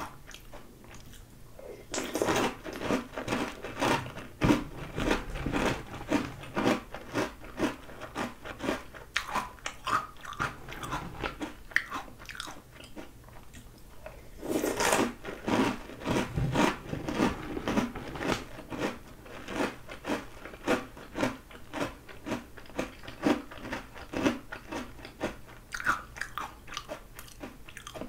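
Crunching and chewing of mouthfuls of Oreo O's chocolate cereal in milk, with loud bouts of crunching starting about two seconds in and again about halfway, each fading into softer, quicker chews.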